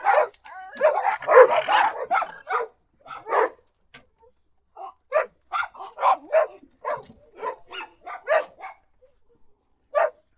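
A large group of dogs, around fifteen, barking playfully rather than in anger. Their barks and yips overlap thickly for the first couple of seconds, then come as separate barks with short gaps.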